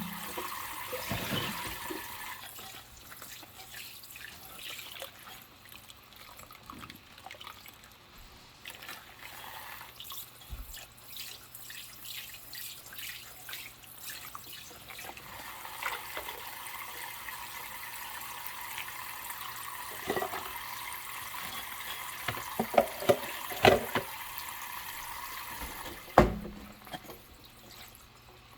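Dishes washed by hand in a kitchen sink: water running from the tap with handling and scrubbing noises, and a cluster of sharp knocks of dishes against each other in the last third.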